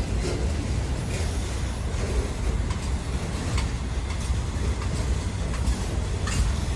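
Freight train cars rolling past, a steady low rumble of wheels on rail with scattered clicks as the wheels cross rail joints.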